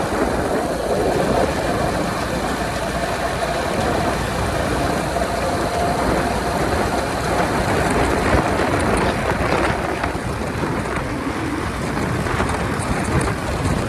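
Honda 125 motorcycle riding at highway speed, heavy wind rushing over the microphone, with the engine a faint steady drone beneath it in the first half.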